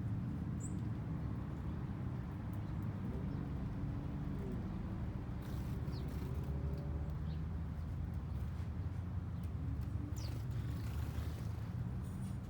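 Steady low background rumble, with a few faint, brief bird chirps: one about a second in, others around the middle and near the end.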